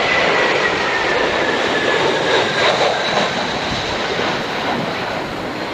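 Jet airliner passing close on approach: a steady rushing engine noise with a thin high whine that slowly falls in pitch.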